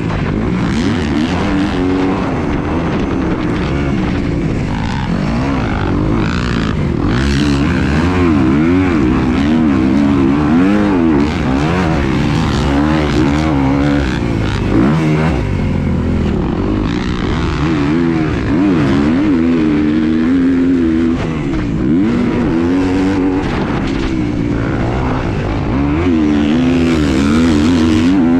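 A motor running, its pitch rising and falling over and over, with a steady rush of noise underneath.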